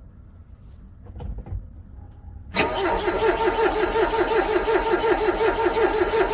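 Car starter cranking a cold engine in freezing weather: a loud, even, rhythmic churning of about five beats a second that begins suddenly a little past halfway, after a few soft knocks. The engine does not catch.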